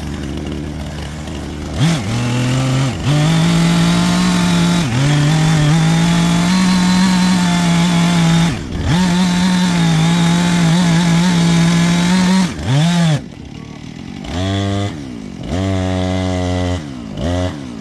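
Chainsaw idling, then held at full throttle for about ten seconds with a few brief dips, as it cuts through a pine trunk during the back cut of a felling. It then drops back and is blipped several times near the end.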